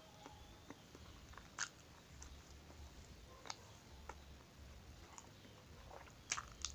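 Faint mouth sounds of someone chewing soft monggo bread (bread filled with sweet mung bean paste): scattered wet smacks and clicks, with a couple of louder ones near the end.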